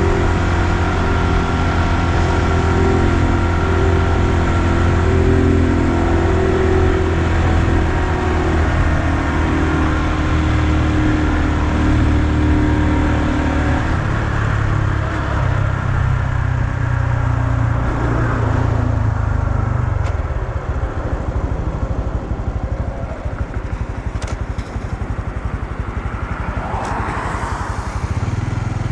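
2020 Honda Super Cub's 125 cc single-cylinder engine running under way. The engine note holds steady, falls away about halfway through as the bike slows, stays low and quieter, and picks up again near the end.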